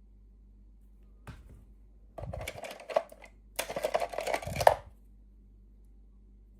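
Packaging being handled and crinkled: a light click about a second in, then two bursts of crinkling and rustling, each about a second long.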